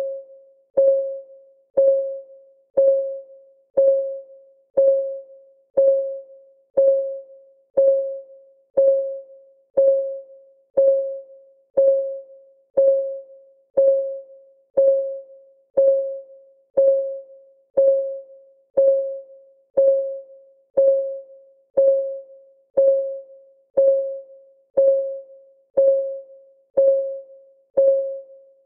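Clock-ticking sound effect of a countdown timer, one tick a second, each tick a short pitched click that dies away quickly.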